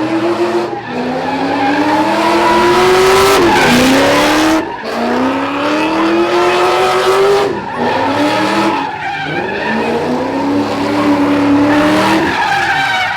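Car engine revving hard with tyres squealing in a burnout. The engine pitch climbs over two to three seconds and drops sharply, about four times.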